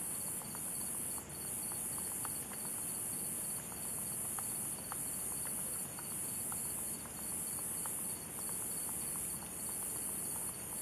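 Night insect chorus: a high, steady buzzing that pulses in phrases a little over a second long, one after another, over a continuous high cricket-like trill.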